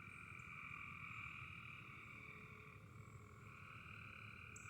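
Faint, steady chorus of frogs calling together, a continuous high-pitched drone at two pitches.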